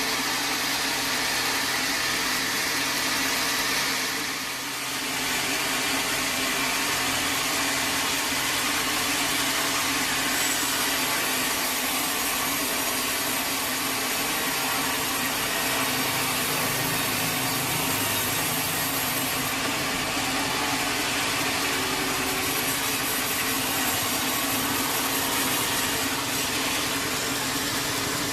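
Sawmill machinery running steadily, a motor-driven saw with an engine-like drone, with a brief drop in level about four and a half seconds in.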